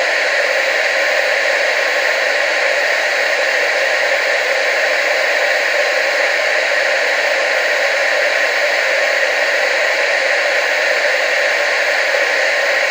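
TV static hissing steadily, with no change in level throughout.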